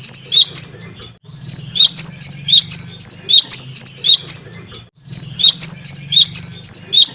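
Cinereous tit (gelatik batu) singing in fast runs of sharp, high chirps, about four notes a second, each run lasting a few seconds with short breaks between them.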